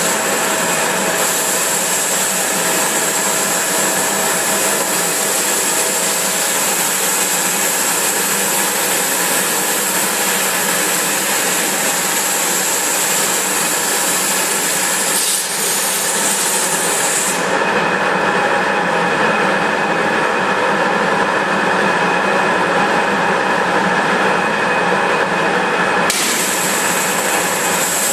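Flow waterjet cutting machine running, its high-pressure water jet hissing loudly and steadily as it drills raw glass. The high hiss drops away about two-thirds of the way through, leaving a lower, duller machine noise, and comes back a couple of seconds before the end.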